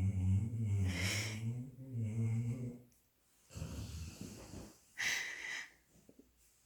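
Sleeping dog snoring: a long, low, droning snore of about three seconds, then a rougher, noisier breath, and a short airy hiss about five seconds in.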